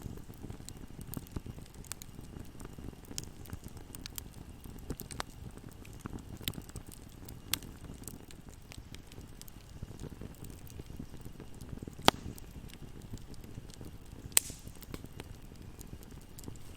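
Fireplace fire crackling over a steady low rumble of flames, with many small snaps and two sharp, louder pops a couple of seconds apart in the second half.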